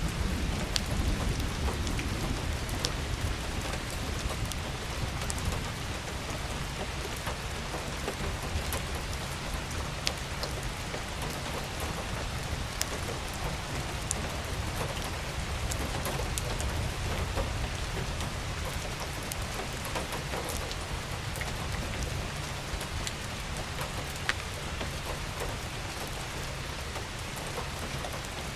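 Steady rain falling on a surface, with scattered sharp taps of individual drops and a low rumble underneath.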